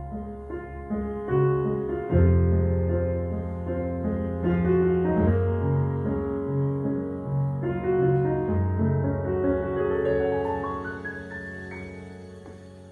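Piano playing a slow passage of sustained chords over deep bass notes, the chords changing every second or two and dying away toward the end.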